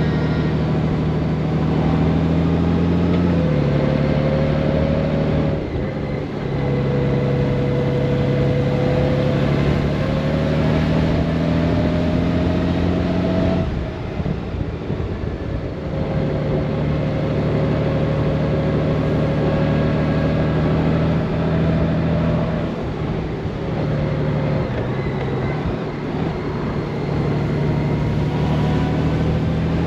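Honda Gold Wing's flat-six engine running under way, its pitch climbing slowly with speed and dropping in steps several times as the dual-clutch transmission shifts up.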